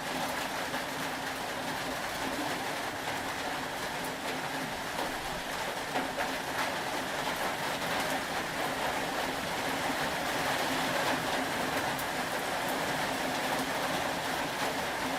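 Steady rain, an even hiss with a low hum beneath it and a few faint ticks.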